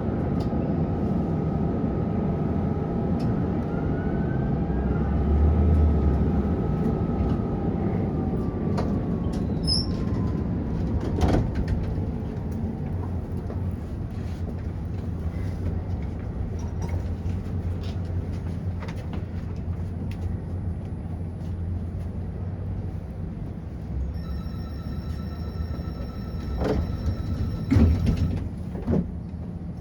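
Prague tram running, heard from inside: a steady rumble of motor and wheels on rails, with a motor whine slowly falling in pitch and scattered clicks and knocks. A pulsed electronic beeping sounds for a few seconds near the end.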